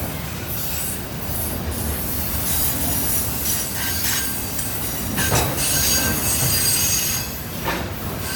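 A train's cars rolling past close by, with steel wheels rumbling on the rails. A high-pitched wheel squeal sets in past the middle and lasts a couple of seconds.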